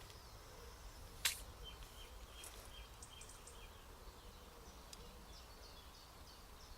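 Faint outdoor ambience with a small bird chirping repeatedly in short high notes, and a single sharp click a little over a second in.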